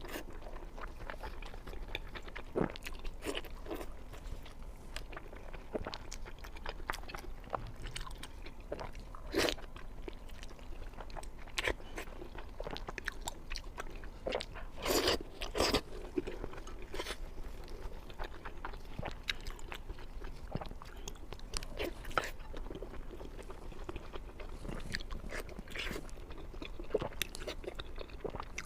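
Close-miked biting and chewing of pork skin rolls: irregular crunching and wet chewing, with a few louder bites along the way.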